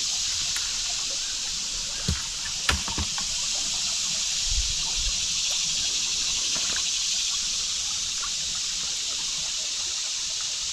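Creek water running and trickling steadily over rocks, with a few short knocks about two to five seconds in.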